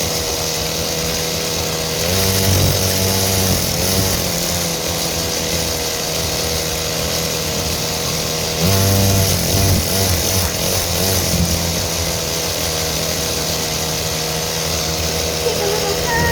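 Small dirt bike engine running steadily, its pitch rising and falling twice as the throttle is opened and let off, about two seconds in and again near the middle.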